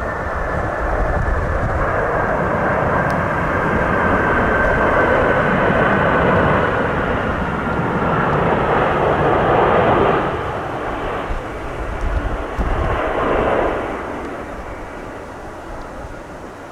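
Jet airliner passing low on landing approach: a high engine whine sliding slowly down in pitch over broad jet noise that swells to a peak about ten seconds in and then fades. Gusty wind rumbles on the microphone underneath.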